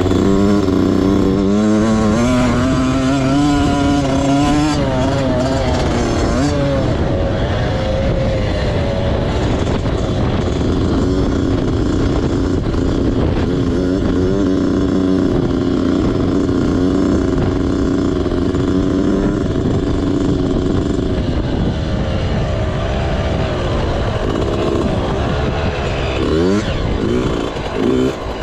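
Motocross bike engine being ridden, its pitch rising and falling repeatedly with the throttle and gear changes, over a steady rush of wind noise. A few quick, sharp revs come near the end.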